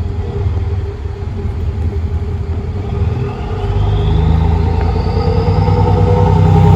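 A motor vehicle running, growing louder about three and a half seconds in, with a faint whine rising in pitch over its steady low hum.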